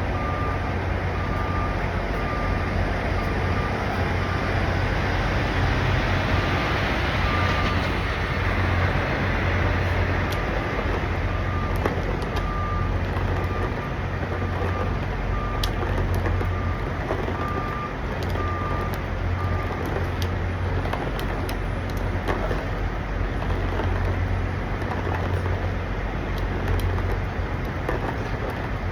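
Steady low rumble of idling diesel trucks. Over it, a truck's reversing alarm beeps about once a second, stopping about twenty seconds in.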